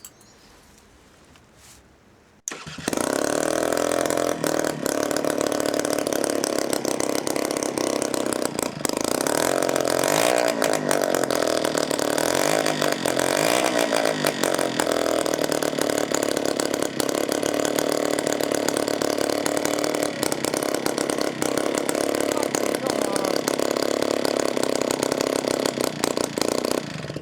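A Honda Vision NH80's 80cc two-stroke engine catches about two and a half seconds in and runs steadily, really loud because no exhaust is fitted. It swells a little a few times and cuts off near the end. It is running on its own fuel feed now that a stuck carburettor float needle, which had kept flooding it, has been freed.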